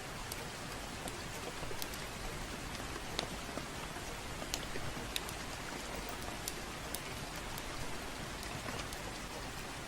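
Steady gentle rain, with scattered sharp crackles and pops from a wood fire at irregular moments.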